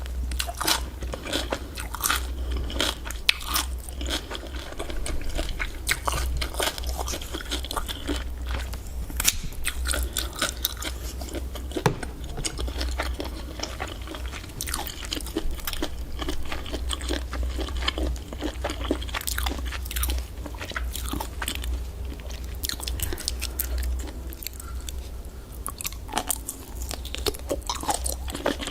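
A person chewing and biting into octopus close to the microphone: a dense, irregular run of mouth clicks and bites, with a steady low hum underneath.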